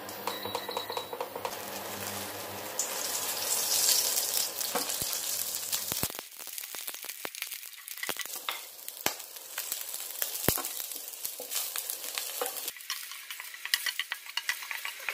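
Chopped garlic and shallots sizzling in hot oil in a stainless steel wok, stirred with a wooden spatula that scrapes and taps on the metal. The sizzle is loudest about four seconds in and dies down after twelve seconds, when the spatula scrapes and taps stand out. A low hum runs under the first six seconds.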